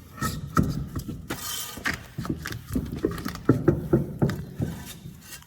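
Irregular metallic clicks and clunks of a truck wheel and its lug nuts on the hub studs as the wheel is fitted, with a short rattling burst about a second and a half in.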